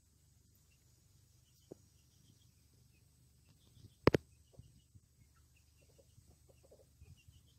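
Faint rural ambience with scattered short bird calls, broken by a single sharp knock about four seconds in, the loudest sound.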